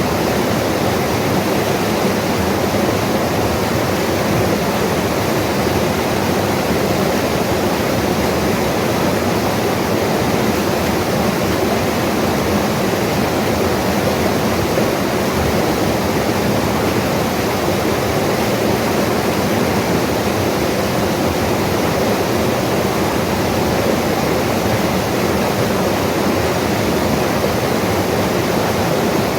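Mountain river rushing steadily, a constant even roar of water with no breaks.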